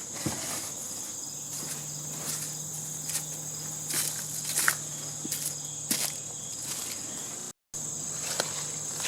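Steady high-pitched buzz of insects, with scattered clicks and knocks and a faint low hum that comes and goes.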